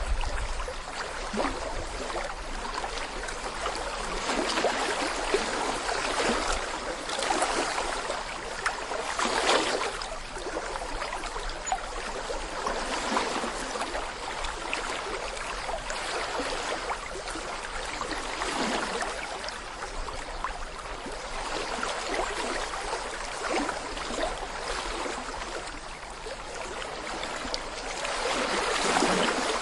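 Small stream babbling over stones: a steady burble of flowing water with many small splashes and gurgles, swelling gently every few seconds.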